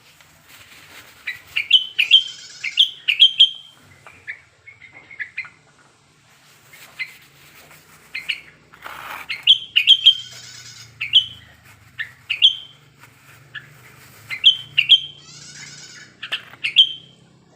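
Sooty-headed bulbul (kutilang) singing: an excited male in breeding condition, calling against a rival. It gives phrases of short, clear whistled notes in quick bursts, with a few buzzy, chattering notes between them. There is a brief rustle about nine seconds in.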